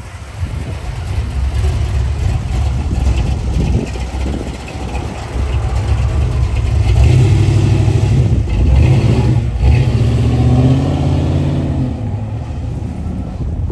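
A muscle car's engine running loud with a deep low note. It builds after a couple of seconds, is loudest in the middle to later part with the revs shifting, then eases off near the end.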